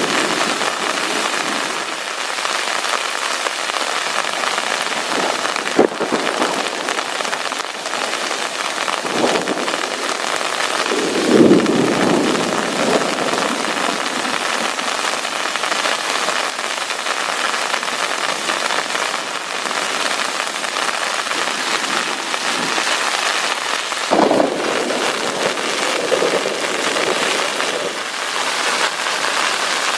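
Heavy rain falling steadily, with two short low rumbles of thunder, one near the middle and one later on.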